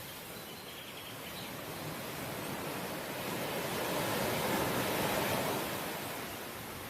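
Sea waves breaking on the shore: a steady wash of surf that swells to a peak about four to five seconds in, then eases off again.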